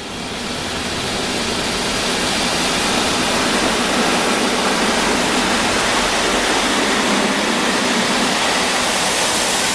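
Automatic car wash spraying onto the car, a steady, even rush of water heard from inside the car's cabin, swelling over the first couple of seconds and then holding.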